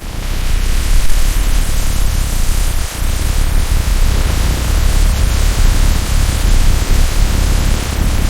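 Loud, steady rushing noise with a heavy low rumble beneath it, like heavy industrial machinery.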